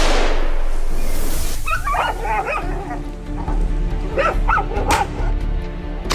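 Dogs barking and yelping in two short bouts over background music, after a sharp bang at the very start.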